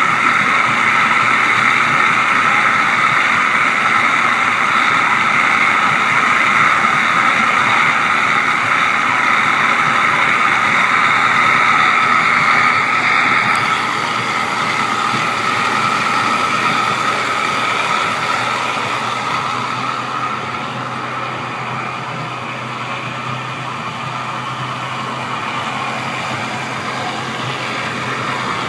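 Boat engine running steadily, with a constant whine above its rush; it drops in level suddenly about halfway through and eases off a little more later.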